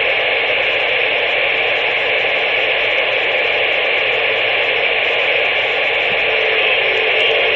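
Steady static hiss, thin and band-limited, without any speech in it.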